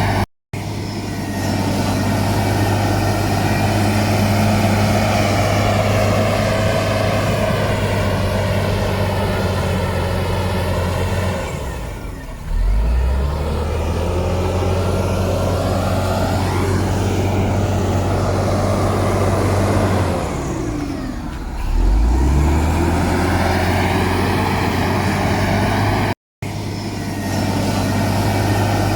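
Heavy construction machine's diesel engine running steadily under load, twice easing off and then picking up revs again. The sound cuts out for an instant twice.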